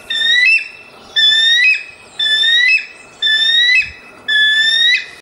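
Bald eagle calling: a series of five high, thin whistled calls about a second apart, each ending in a quick jump up in pitch.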